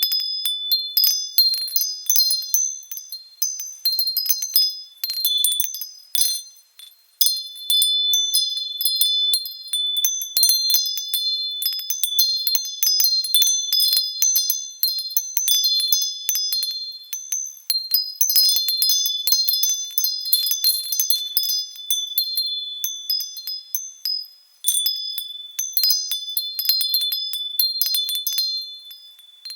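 Wind chime bells stirred by wind, ringing irregularly: many overlapping high, sustained tones struck in clusters, with brief lulls now and then.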